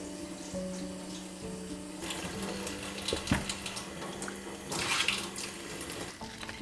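Water running and splashing, with soft background music of sustained notes.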